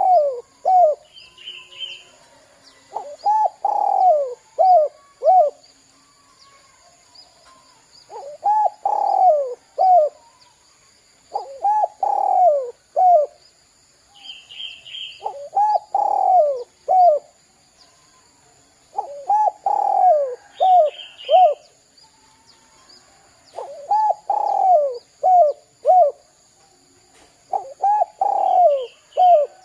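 Derkuku (spotted dove) cooing its 'kuk 2' song, a phrase of four or five coos repeated every three to four seconds. Short higher chirps are heard between some phrases.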